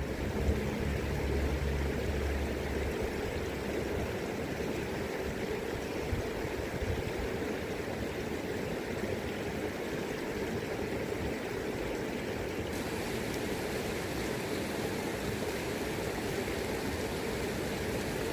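River current flowing steadily, an even rush of water. A low hum under it fades out in the first few seconds.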